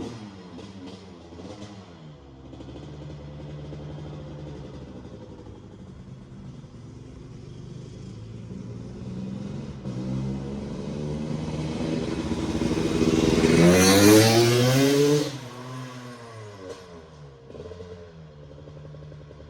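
1997 Honda CR250's two-stroke single-cylinder engine revving up and down as the bike is ridden. It grows louder to a close pass about 14 seconds in, then fades into the distance.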